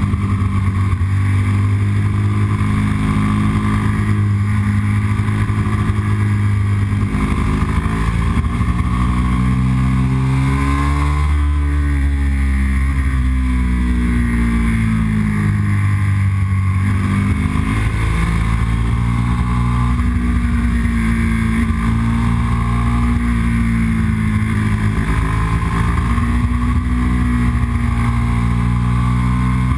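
A Yamaha R1's inline-four engine running hard as the motorcycle is ridden up a twisty mountain road. The engine note rises and falls again and again as the rider accelerates out of bends and rolls off into them.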